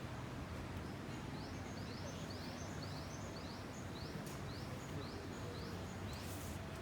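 Steady outdoor background noise, with a bird singing a rapid series of short, high, rising notes, about four or five a second, from about a second in for roughly three seconds.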